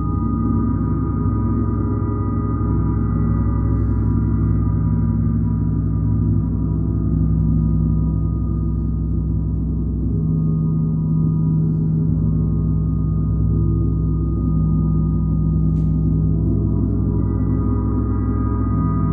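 Gong played as one continuous, steady wash of many overlapping sustained tones, with no separate strikes standing out.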